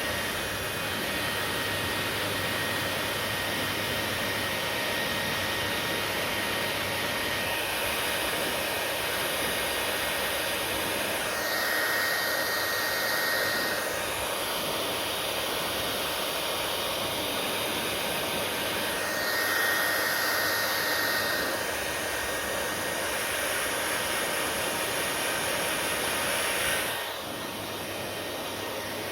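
Hair dryer running with a steady rush of air and a faint high whine. It grows louder briefly twice and drops to a lower, quieter setting near the end.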